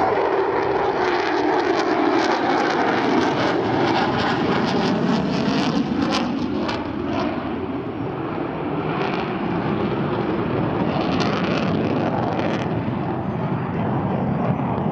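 Airplane flying past with its engine running loud and continuous, the pitch sliding down and then back up as it passes.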